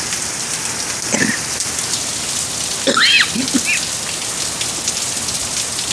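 Heavy hurricane rain and wind, a steady hiss throughout. A few short high squeaks come about a second in and around three seconds in.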